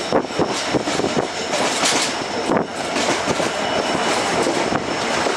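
Passenger train of ICF coaches running along the line, its wheels clattering over rail joints in scattered knocks over a steady running rumble.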